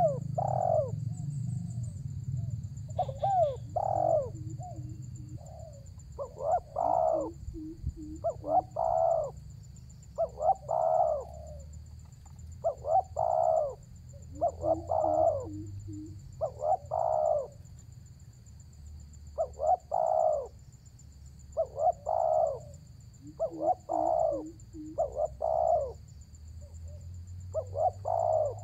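Spotted dove (tekukur) calling over and over in repeated coo phrases about every two seconds, with short, soft, low rolling notes between some phrases. A faint steady high whine runs underneath.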